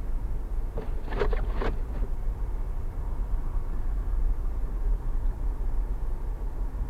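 Steady low rumble of a car's road and engine noise at highway speed, picked up inside the cabin by a windshield dashcam. About a second in, there is a brief cluster of three or four short sharp sounds.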